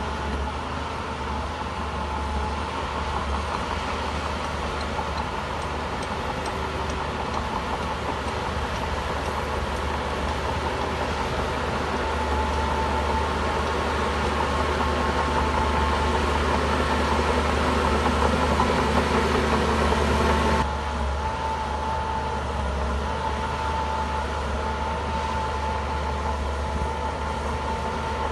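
Shantui bulldozer's diesel engine running with a steady high whine. The sound slowly grows louder, then drops abruptly about three-quarters of the way through.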